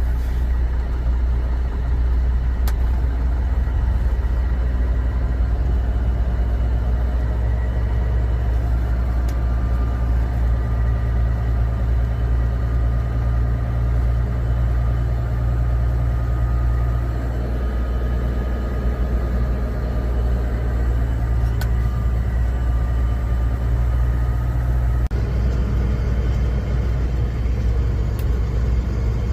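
Steady engine and road rumble heard from inside a moving vehicle's cab. The sound shifts slightly about 25 seconds in.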